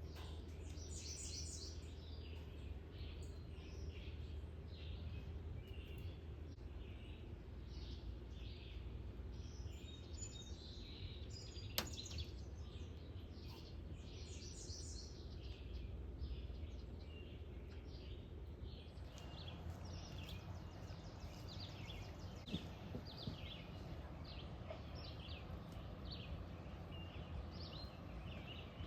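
Birds chirping and calling in many short, quick notes over a steady low rumble, with one sharp click about twelve seconds in.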